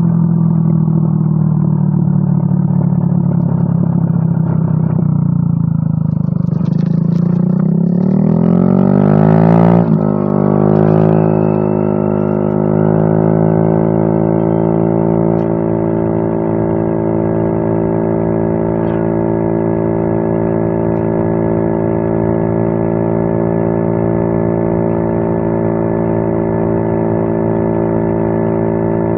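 Yamaha Mio M3 scooter's single-cylinder engine running through a WRX aftermarket exhaust. It is revved up about a third of the way in, then settles into a steady, even note.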